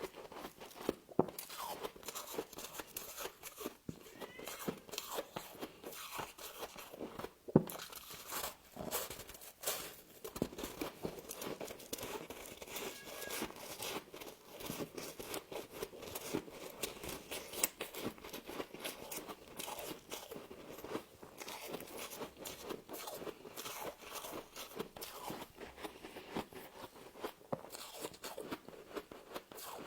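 Frost being bitten and chewed, a dense run of irregular crunches.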